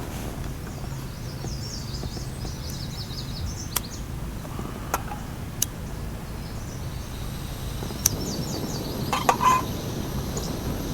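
Birds chirping in two spells of quick high trills over a steady low outdoor rumble, with a few short sharp clicks in between.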